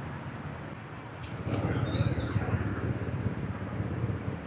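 Motorbike engine and surrounding city traffic running under the rider, a steady low rumble that grows louder about a second and a half in.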